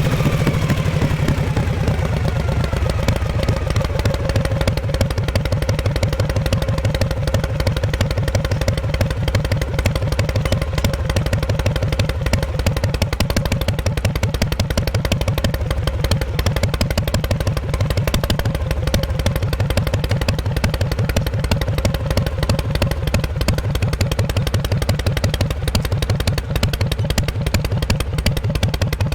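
Exhaust of a 1948 Harley-Davidson Panhead V-twin under way: the note falls in the first second or two as the engine eases off, then holds steady with its even firing pulses at a cruising pace.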